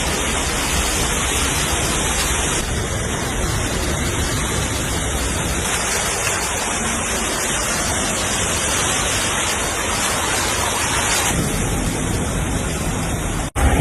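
Heavy rain falling, a steady hiss that changes character abruptly a few times where clips are cut together, with a brief dropout near the end.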